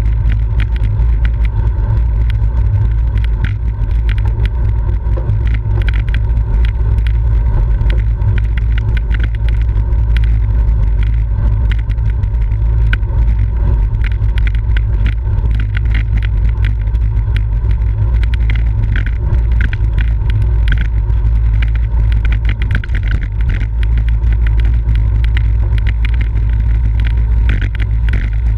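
Wind rushing over the microphone of a camera riding on a road racing bicycle: a loud, steady low rumble with frequent small clicks and rattles.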